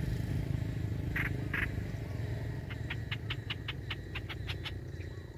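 A bird calling: two short notes about a second in, then a fast chattering run of about a dozen notes, roughly six a second, over a steady low rumble.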